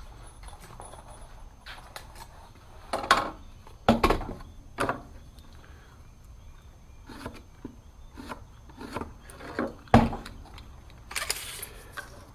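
Irregular knocks and clatter of wooden boards and tin being handled and set in place while a door frame is built, a few of the knocks ringing briefly.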